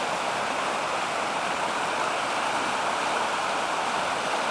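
Brook in spring flood rushing and tumbling steadily over rocks, swollen with rain and snowmelt.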